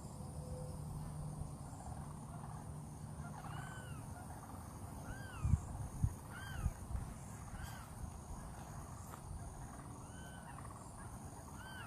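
Sandhill crane calling repeatedly, short calls that rise and fall in pitch, every one to three seconds. Two dull thumps sound near the middle.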